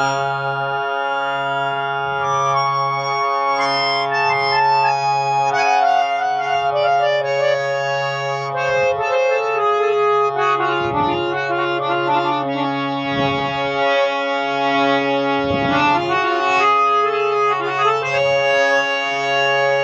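Old full-size harmonium with Paris reeds being played: a melody over held drone notes. The tune steps down through the middle of the passage and climbs back near the end.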